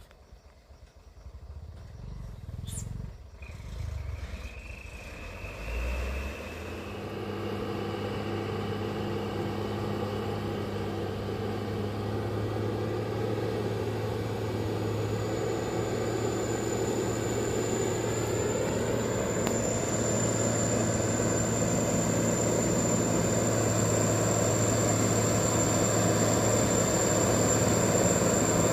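Heavy diesel engine running steadily and slowly getting louder, after a few low thumps in the first seconds; a thin high whine joins about halfway through.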